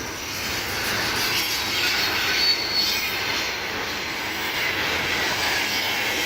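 Freight train wagons rolling past on the rails: a steady rushing rail and wheel noise, with a brief high wheel squeal about two and a half seconds in.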